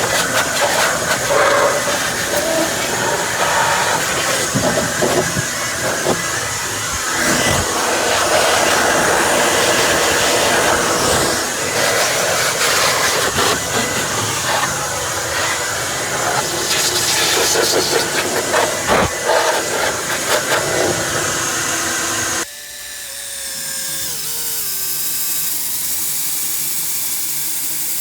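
Loud steady rushing hiss from cleaning dryer parts, with rattling and clicking through it. Near the end it cuts down abruptly to a thinner, higher hiss with a faint hum.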